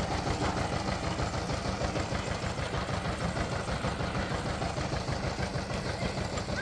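Diesel engine running steadily at idle, with a fast, even chugging beat.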